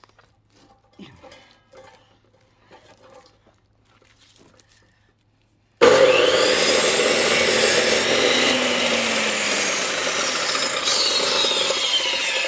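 Faint knocks of wood being handled, then about six seconds in a chainsaw suddenly starts up loud and cuts into a log, its pitch sagging near the end.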